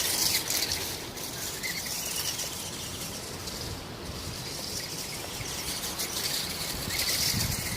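Birds chirping over a steady high hiss, with one short rising call about a second and a half in.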